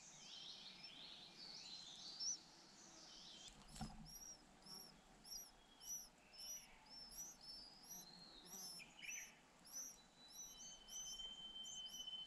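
Faint, high twittering of white-eyes at the nest, turning about four seconds in into a regular run of short, high chirps repeated about twice a second. A brief soft knock comes just before the chirping starts.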